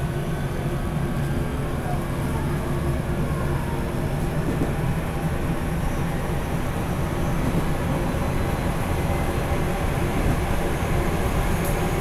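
Running noise inside a JR Central 373 series electric train, heard from the vestibule of its motor car: a steady rumble of wheels and running gear at speed.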